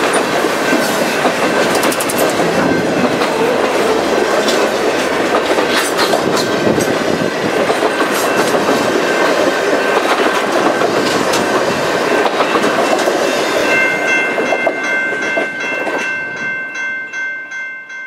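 Canadian Pacific Holiday Train's boxcars and passenger coaches rolling past at speed: steady wheel and rail noise with clickety-clack over the rail joints, dying away after the last coach goes by. In the last few seconds a steady high chord sounds as the rumble fades.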